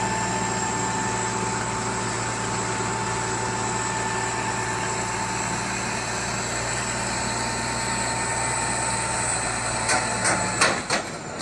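A motor vehicle engine running steadily at a constant note. Near the end come several sharp knocks and clatter.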